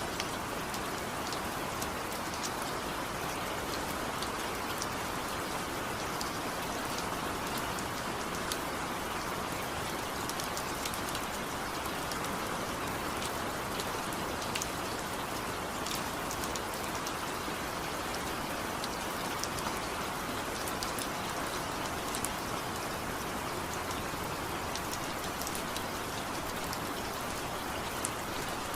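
Steady rain falling, with individual drops ticking sharply on a surface over the even patter.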